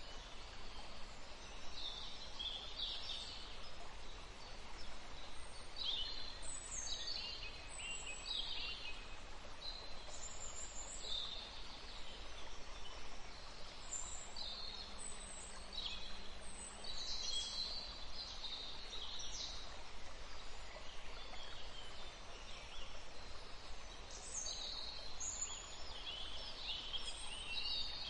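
Songbirds singing: short, high chirping phrases and quick falling notes from several birds, one after another, over a low steady rumble.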